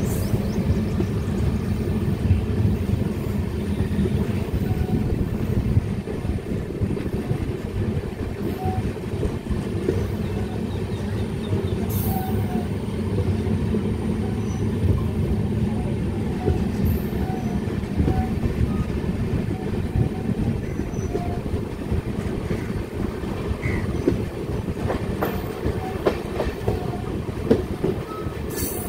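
Steady rumble and clatter of an express passenger train running at speed through a station, heard from on board beside the coach, with its wheels on the track.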